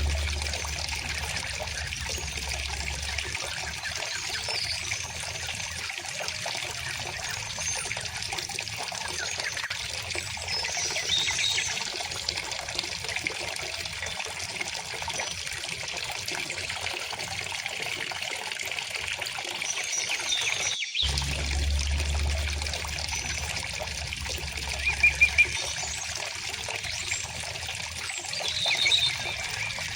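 A river or stream flowing steadily with a gentle rushing trickle, while birds chirp now and then above it, most clearly in a quick run of chirps a little over two-thirds of the way through. The sound cuts out for a moment about two-thirds through, then the water picks up again.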